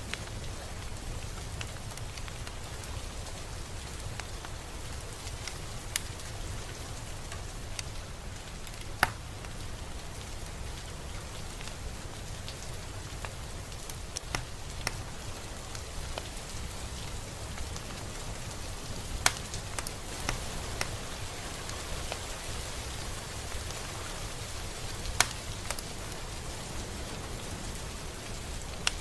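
Steady rain falling, with the occasional sharper drop striking a surface.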